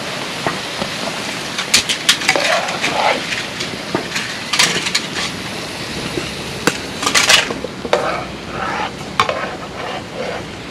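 Hotteok (Korean sweet pancakes) sizzling in oil in a frying pan, with sharp clicks and scrapes of a turner against the pan now and then, loudest about seven seconds in.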